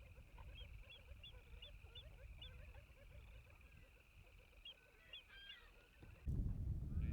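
Distant geese honking and other waterfowl calling, with short high chirps over a steady high trill behind them. About six seconds in, this cuts abruptly to a louder low rumble of wind on the microphone.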